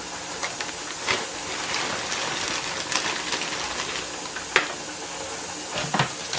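Kitchen food-preparation handling: a few light knocks and clicks of utensils and containers over a steady hiss.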